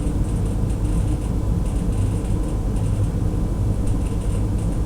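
Steady low rumble of background noise, unchanging in level.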